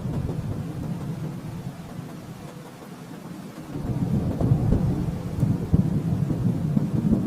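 Distant thunder rolling in a low, crackling rumble. It fades a little, then swells louder about four seconds in.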